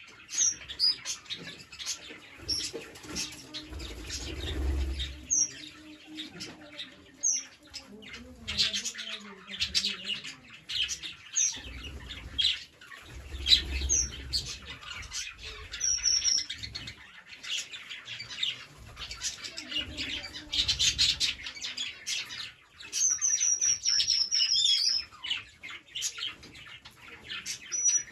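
Green parrots chattering: a dense run of short chirps with scattered sharp, high whistles, and one longer whistle that falls in pitch a little after twenty seconds in.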